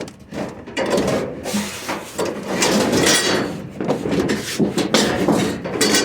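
Irregular scraping, knocking and rattling of hard objects being shifted and handled.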